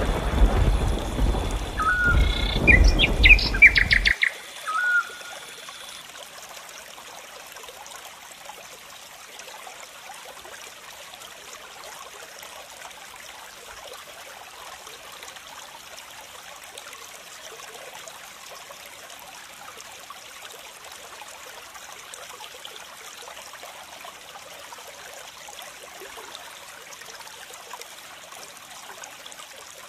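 Birds chirp several times in the first five seconds over a loud low rumble that cuts off suddenly about four seconds in. After that there is a steady, even hiss of flowing water.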